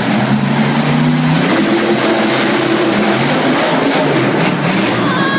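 Monster truck engines revving hard in a race, their pitch climbing and dropping, over a loud arena din.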